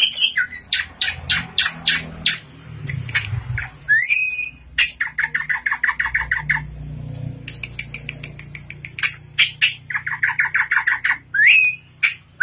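A drongo (srigunting) singing a loud, varied song: runs of sharp clicking notes, an upslurred whistle about four seconds in and another near the end, and fast trills of repeated notes.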